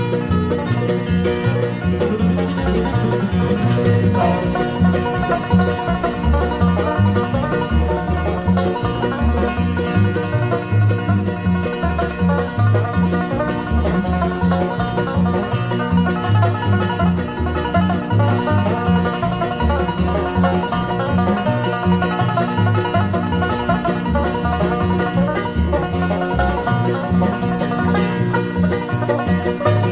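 Instrumental bluegrass with a five-string banjo picking the lead over guitar, mandolin and bass, with no singing.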